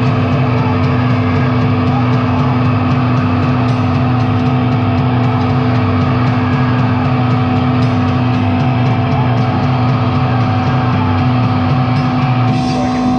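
Live harsh noise performance: a dense wall of distorted electronic noise over a steady drone, with a pulsing low tone underneath. The texture shifts near the end.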